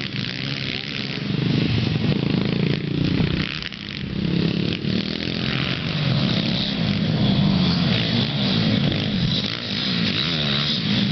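Pit bike engine running hard on a dirt track, its pitch rising and falling as the throttle is opened and closed, with a short let-off about four seconds in.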